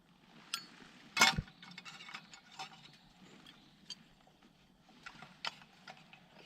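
Wood campfire crackling with scattered sharp pops, and one louder knock about a second in.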